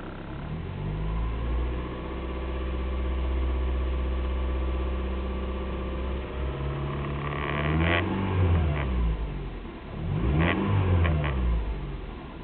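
Nissan Micra 1.0 16V four-cylinder petrol engine being revved: it rises soon after the start, holds at raised revs for a few seconds, then is blipped up twice and falls back to idle, with a few sharp clicks during the blips. The owner says the earlier noise went once the drive belts were tightened and only valve tapping remains.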